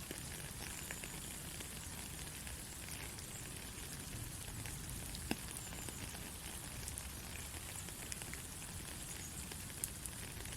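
Steady soft rain falling, with scattered drop ticks and two sharper drop hits, one about halfway through and one near the end.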